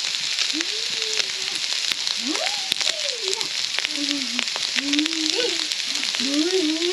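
Food sizzling in hot oil in a cooking pan, a steady frying hiss with scattered clicks from stirring. A faint voice rises and falls over it.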